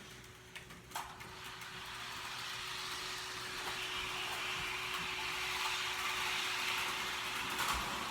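HO scale model locomotive running on the track and pushing coaches, a steady whir of its small motor and wheels on the rails. It starts with a click about a second in and grows louder.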